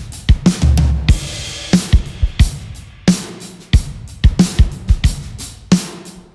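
Drum kit playing a groove: a steady rhythm of kick, snare and hi-hat strokes, with a cymbal wash ringing out about a second in.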